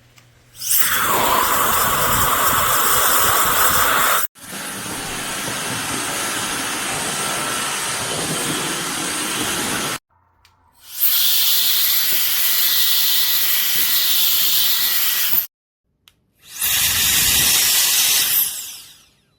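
CCV cordless electric air duster, a small high-speed fan motor, running in four separate blasts of rushing, whining air, each switched on and off abruptly. The first run spins up with a rising whine about a second in, and the second run is quieter than the others.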